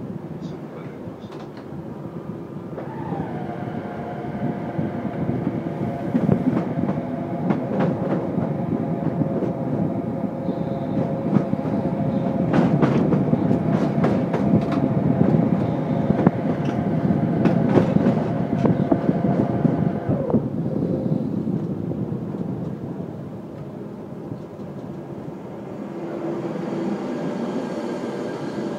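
Electric train running through a rail yard, heard from on board: wheels rumbling and clattering over rail joints and switches, loudest about halfway through. A steady whine sets in about three seconds in and stops about twenty seconds in.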